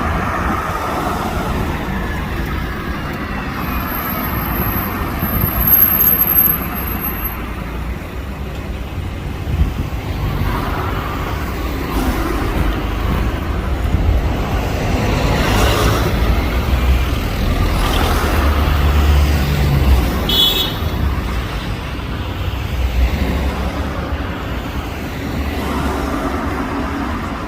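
Road traffic noise: a steady low rumble of passing cars and trucks, swelling as vehicles go by.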